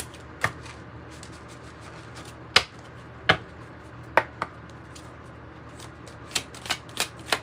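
Oracle cards being handled on a table: about eight separate sharp snaps and taps as cards are drawn and laid down, following a shuffle.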